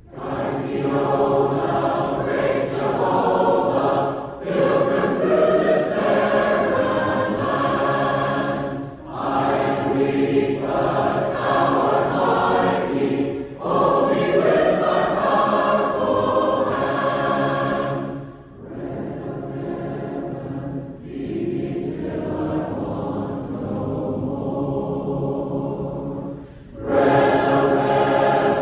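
Church congregation singing a hymn a cappella in parts, in phrases of a few seconds separated by short breaths. The singing softens for a passage past the middle, then returns at full volume near the end.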